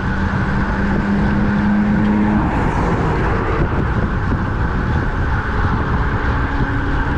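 Wind rushing over the microphone of a road bike ridden at speed, mixed with motor traffic on the road. A steady droning hum runs through the first two and a half seconds, then fades out.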